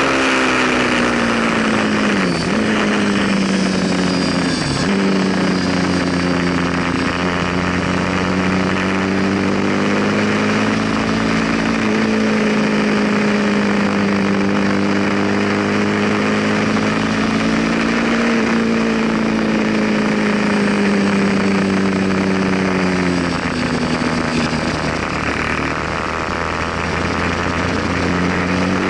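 Ducati sportbike's L-twin engine running hard on track, heard from on board over rushing wind. The engine note dips sharply twice in the first few seconds, holds fairly steady through a long stretch, then falls and climbs again near the end as the rider works through gears and corners.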